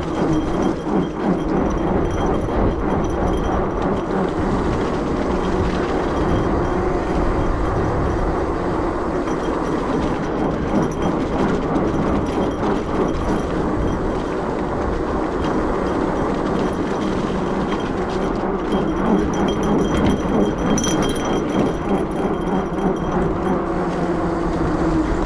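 Fat bike riding along on a road: a steady rumble from the wide knobby tyres rolling on the surface, with a constant droning hum.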